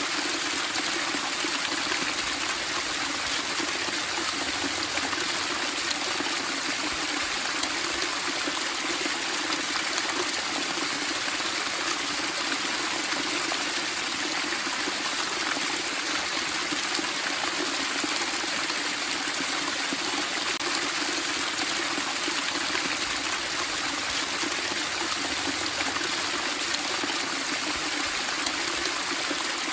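Flowing water babbling and splashing in a steady, unbroken rush.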